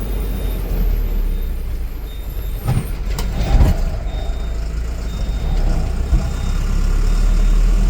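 Truck engine running with a steady low rumble, a short high beep repeating about once a second, and a few knocks about three seconds in.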